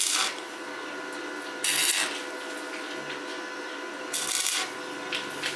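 Short rasping strokes, about one every two seconds, over a faint steady hum.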